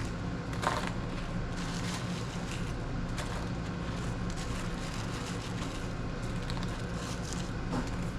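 A steady low mechanical hum, with a couple of faint clicks over it.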